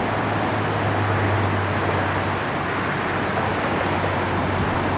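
Steady rushing wind noise, with a low steady hum underneath.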